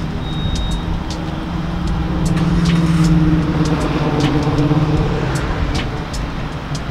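A motor vehicle's engine running close by in a parking lot, growing louder toward the middle and easing off again, with scattered sharp clicks over it.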